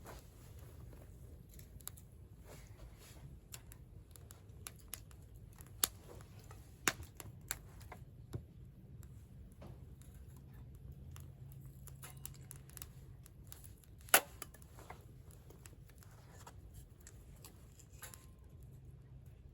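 Wood campfire crackling, with irregular sharp pops and snaps. The loudest pop comes about two-thirds of the way in.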